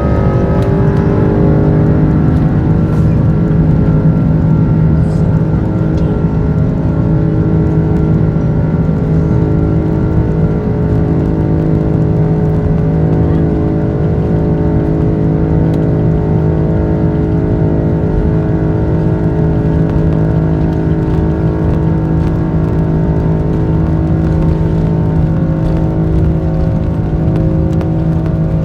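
Airbus A330 jet engines running at steady high power: a loud rumble with a stack of steady whining tones, which shift in pitch in the first second or two and then hold.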